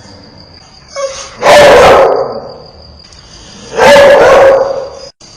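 Ferocious dog barking: two loud, drawn-out barks about two seconds apart, the first about a second and a half in, over a faint steady high tone.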